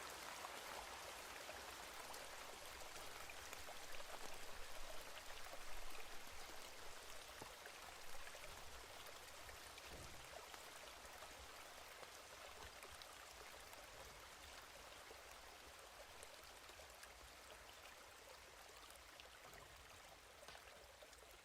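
Steady rain, an even hiss with scattered small drop ticks. It swells a little about four to six seconds in, then eases off gradually.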